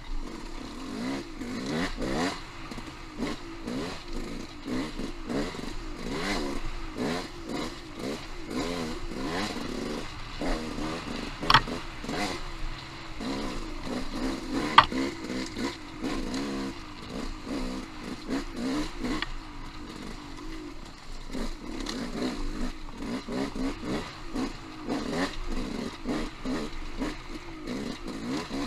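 Off-road motorcycle engine running on rough singletrack, its revs rising and falling continually as the throttle is worked, with steady rattling and clattering over the rocks. Two sharp knocks stand out about halfway through, a few seconds apart.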